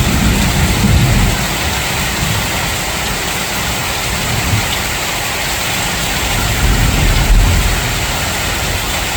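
Steady rain falling, with the low rumble of distant thunder, heaviest in the first second or so and swelling again about seven seconds in.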